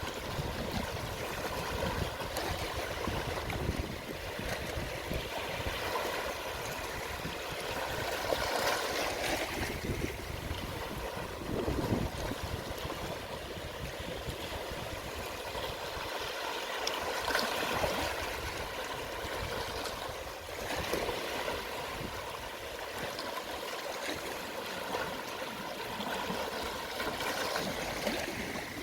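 Gentle, small sea waves washing and trickling over the shore at low tide, in a steady wash that swells a little louder about every eight or nine seconds as each wave comes in.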